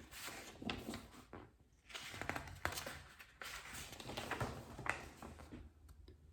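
Faint paper rustling and crinkling with small clicks: a picture book being handled and its pages turned.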